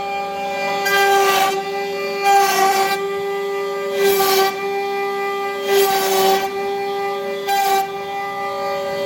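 CNC router spindle running with a steady high whine while the bit carves wood. A louder hiss of cutting surges about every one and a half to two seconds as the tool makes its passes.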